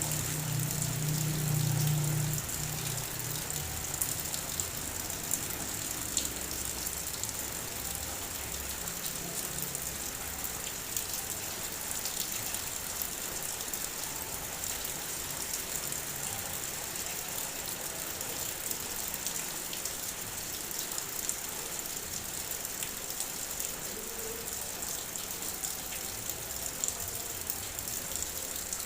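Heavy rain falling steadily: a dense, even hiss with scattered sharper drop ticks. A low rumble sounds under it in the first few seconds and fades away.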